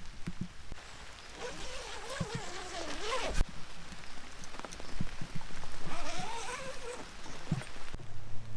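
Rain pattering, with drops striking close by, while an animal gives two long wavering calls a few seconds apart. A sharp knock comes at the end of the first call.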